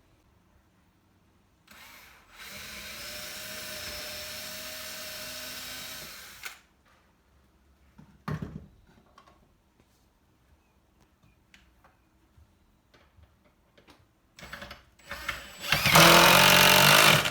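Power drill driving screws into the wooden bottom of a bird house: one steady run of about four seconds, a few knocks as the next screw is set, then a shorter, much louder run near the end.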